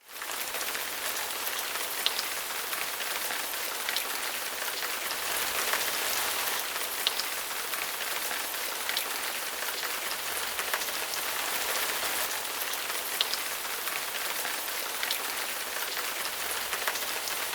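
Steady hiss of water pattering on a hard surface, with scattered sharp drop ticks, like heavy rain.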